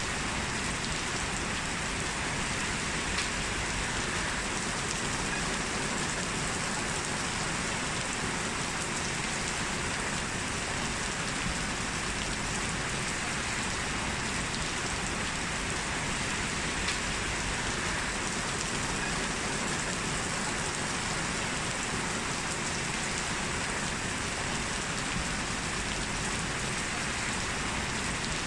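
Heavy rain falling steadily: an even, unbroken hiss with no letup.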